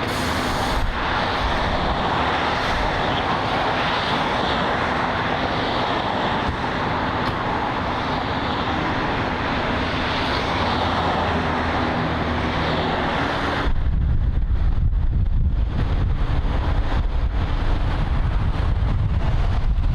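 Steady roar of freeway traffic. About fourteen seconds in it gives way abruptly to wind buffeting the microphone, a loud fluttering low rumble.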